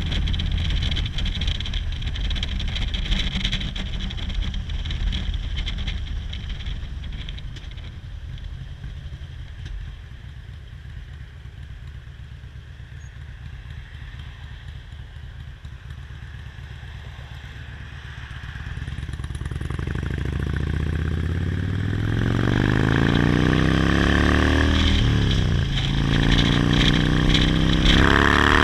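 Motorcycle engine running, growing fainter and then louder again. In the second half it accelerates with rising revs, with a gear change about 25 seconds in followed by more revving up.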